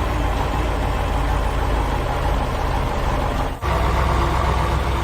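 Heavy construction-machine engine running steadily with a low pitch, cutting out briefly about three and a half seconds in before carrying on.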